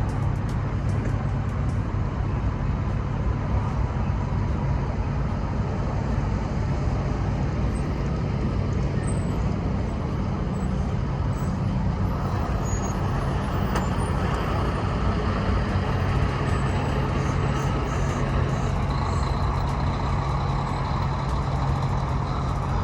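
Semi-truck running steadily: a low, even engine hum with a wash of noise over it, unchanging throughout.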